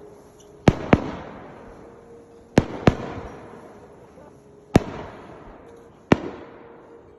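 Fireworks going off: six sharp bangs in four groups, two of them quick pairs, each bang trailing off in a fading tail.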